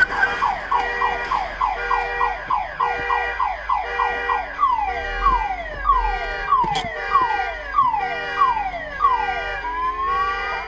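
Electronic siren sounding a repeated downward-sweeping tone, quick at first and slowing to about two sweeps a second, then switching to a rising sweep near the end.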